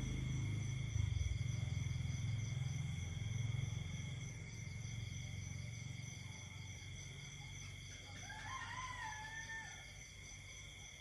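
Night insect chorus of several steady high-pitched tones, over a low rumble that fades through the first half. About eight seconds in, a rooster crows once, a wavering call lasting under two seconds.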